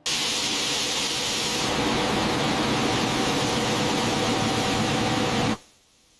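Steady, loud machinery hiss with a faint low hum under it. It starts abruptly and cuts off suddenly about five and a half seconds in.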